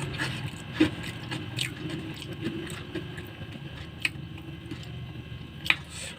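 Eating sounds: chewing with a few sharp clicks, four in all, the loudest near the end.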